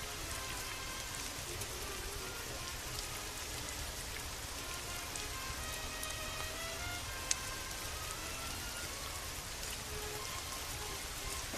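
Steady rain falling, with soft, sparse music notes underneath. A single sharp pop about seven seconds in.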